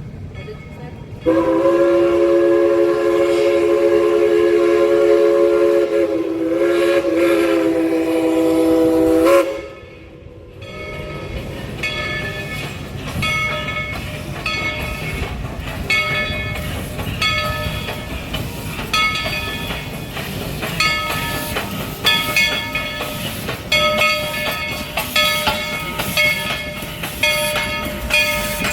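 Steam whistle of locomotive no. 190, a coal-burning steam engine, blowing one long chord of several notes for about eight seconds, with a brief waver in pitch near its end. From about ten seconds in, the locomotive's bell rings in steady strokes about once a second.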